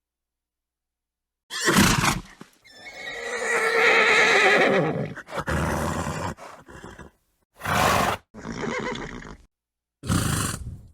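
Horse sounds: a short snort, then a long quavering whinny, followed by several more snorts and blows. Clean silent gaps separate them.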